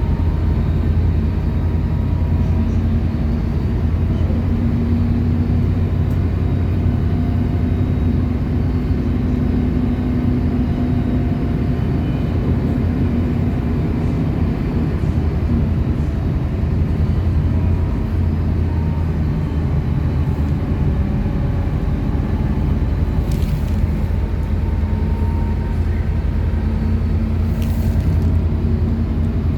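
City bus engine and road noise heard from inside the cabin while driving: a steady low drone with a faint hum.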